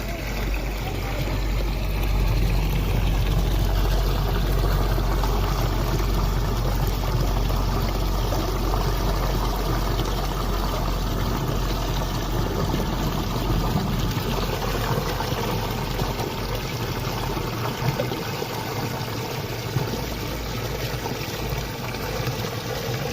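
Water running and trickling steadily over a low rumble, which thins out and comes and goes about two-thirds of the way through.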